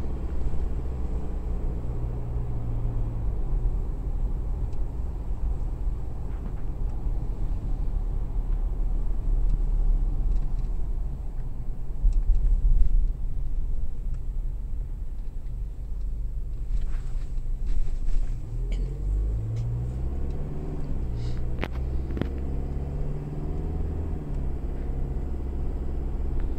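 A car engine that is the same unit used in a pickup truck, heard from inside the cabin while driving: a steady low rumble with road noise that sounds like a pickup truck. In the last third the engine pitch rises and falls as it revs through the gears, with a few short knocks.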